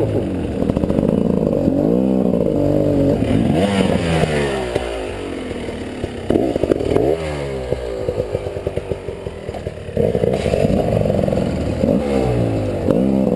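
300cc two-stroke enduro motorcycle engine revving up and dropping back again and again as the bike is ridden off-road, with a loud blip about six and a half seconds in and another rise about ten seconds in.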